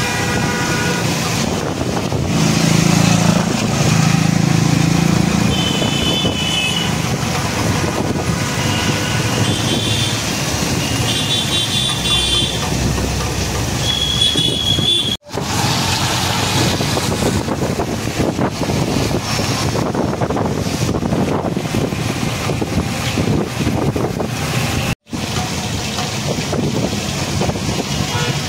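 Road traffic: vehicle engines running under steady road noise, with short high-pitched horn toots several times in the first half. The sound cuts out abruptly twice, at edits.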